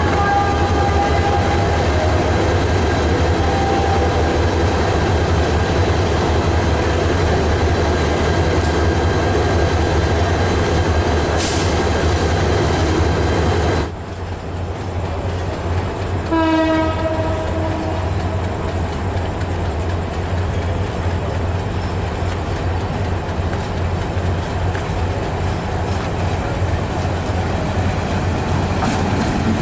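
Steady low rumble in a station underpass. After a cut, a Bangladesh Railway diesel locomotive sounds one horn blast of about a second as it approaches a level crossing, then the train rumbles past.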